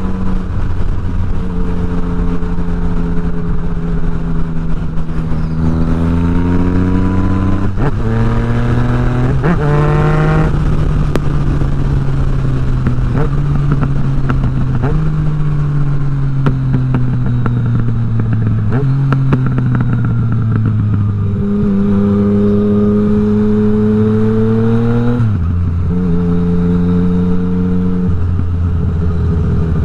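Yamaha MT-09 motorcycle's inline three-cylinder engine and exhaust under way, its pitch climbing under throttle and dropping sharply at gear changes about 8, 10 and 25 seconds in, with a long slow fall in between as it eases off.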